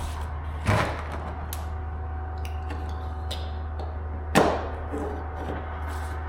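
Work noise while cutting and handling underlayment on a concrete floor: two sharp knocks, about a second in and again past the middle, with light clicks between, over a steady low hum.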